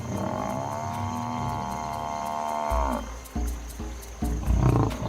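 Cape buffalo bellowing in distress as lionesses pull it down: one long drawn-out call that sags in pitch and breaks off about three seconds in, followed by low rumbling grunts.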